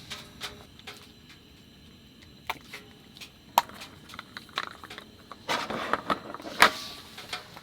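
Scattered small clicks and knocks of cooking gear and food being handled, with a short rustle about five and a half seconds in and a sharper knock just after it.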